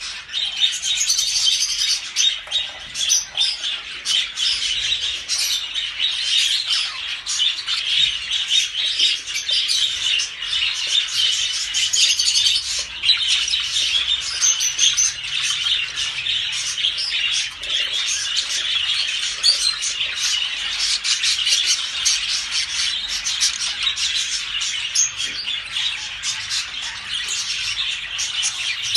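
A flock of many small birds chirping and squawking at once in a dense, unbroken chorus of short, high calls.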